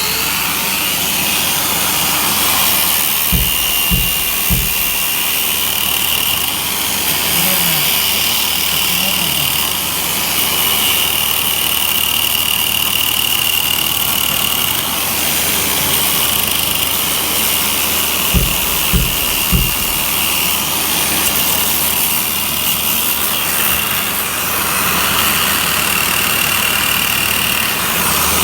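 Angle grinder with a sanding head running steadily against log walls, a high whine over a loud rushing noise, with a Hilti vacuum drawing the dust off through the grinder's shroud. Twice, a few short low knocks sound in quick succession.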